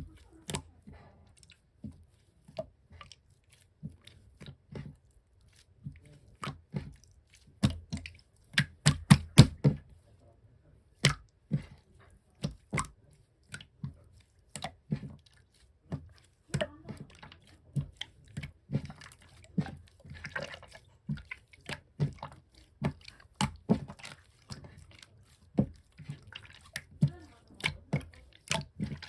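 Thick chisel-type slime being pressed and worked by hand, giving irregular sticky clicks and pops, with a quick run of loud pops about nine seconds in.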